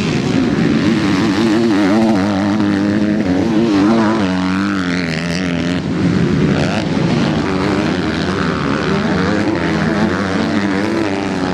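Several MX2 motocross bikes' engines revving and wavering in pitch as they race, with one bike's revs climbing sharply as it accelerates about halfway through.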